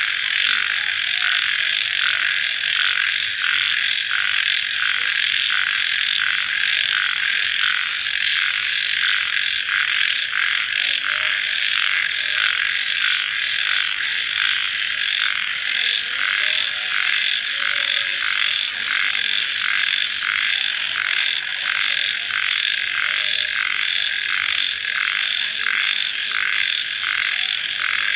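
Dense night chorus of crickets chirping just after rain, a steady pulsing trill.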